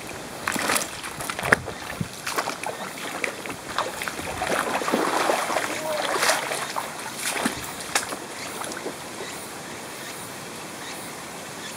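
Mountain stream rushing steadily, with a run of splashes and sharp knocks over it that is busiest midway and stops about nine seconds in, leaving only the flowing water.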